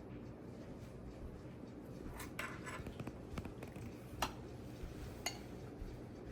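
A few light clinks of a utensil against a dish or pot, about five short knocks spread over a few seconds.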